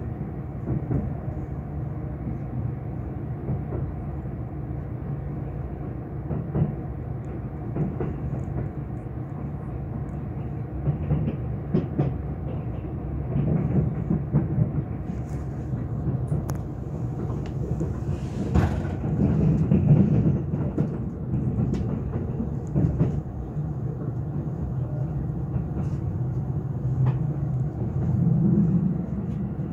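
Kintetsu 22600 series 'Ace' limited express electric train running, heard from inside the passenger cabin: a steady rumble with scattered clicks and knocks from the wheels on the track, swelling louder about two-thirds of the way through.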